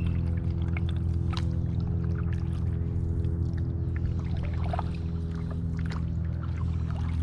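Stand-up paddleboard paddling: water splashing, trickling and dripping from the paddle in scattered small splashes and clicks. Under it runs a steady low hum.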